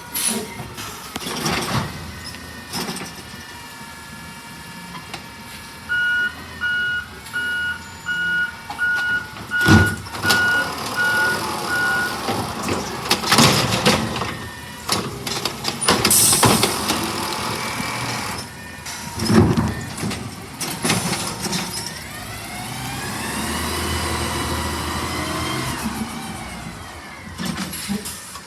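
Recycling garbage truck moving about, its reversing alarm beeping in a steady on-off pattern for several seconds, among sharp clanks and knocks. Near the end a whine rises and falls over a few seconds.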